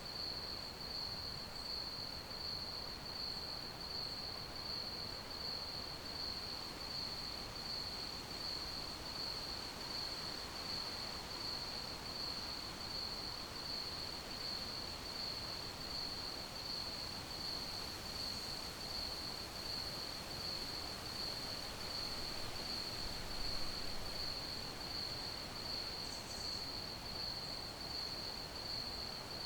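Crickets chirping in a steady, evenly pulsing high-pitched trill over a soft background hiss.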